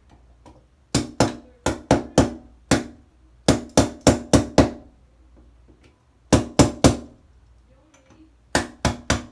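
Hammer blows chipping at hard grout packed around a shower valve pipe: about seventeen sharp strikes in four quick bursts, each with a short ring.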